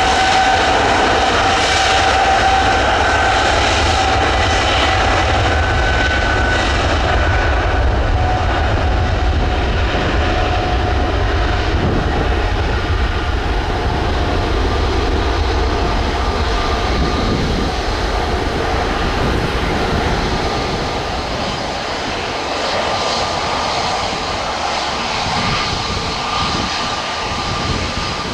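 Boeing 777-300ER's GE90 jet engines at take-off thrust: a steady loud jet noise with a deep rumble and a held whine, both slowly fading in the second half as the aircraft departs.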